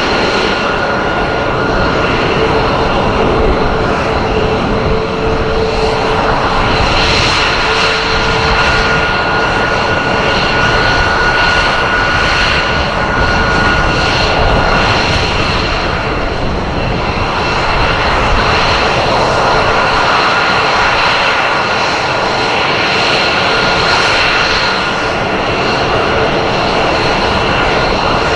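Aircraft engine noise from an aircraft flying at an air show: a loud, continuous roar with steady high whining tones over it.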